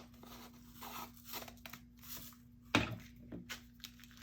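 Faint paper and card handling on a craft table: scattered small rustles and clicks, with one louder knock a little under three seconds in.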